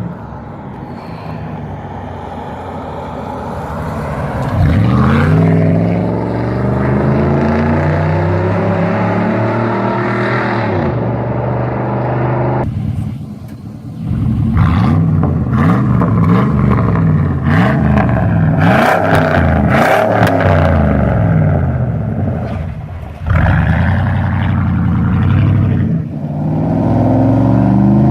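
GMC Savana van's engine revving through a custom stainless-steel exhaust: one long rev that climbs and falls about five seconds in, then a run of quick throttle blips, and another rise near the end.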